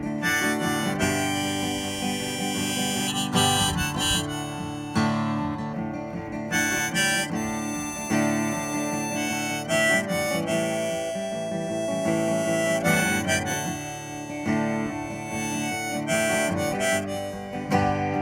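Instrumental break of a country gospel song: a harmonica plays the melody in held and moving notes over a strummed acoustic guitar.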